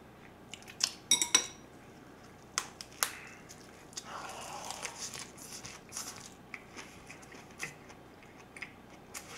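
Chopsticks clicking and clinking against a dish a few times. Then, about four seconds in, a big lettuce-and-perilla-leaf wrap of spicy pork and rice is bitten into and chewed close to the microphone with crisp, crackly crunching, fading to softer chewing.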